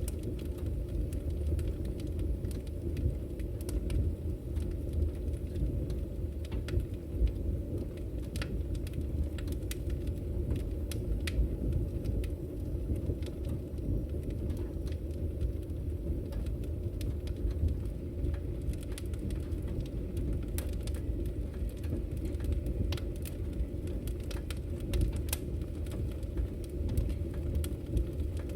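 Wood fire burning in a fireplace: a steady low rumble with sharp crackles and pops of the burning firewood scattered irregularly throughout.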